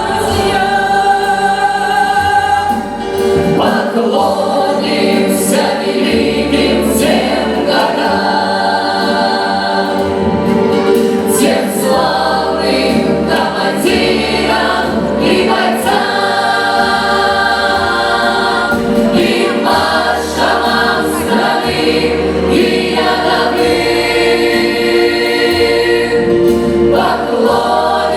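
Vocal ensemble singing a patriotic song in held chords over instrumental accompaniment with a bass line that changes note every couple of seconds.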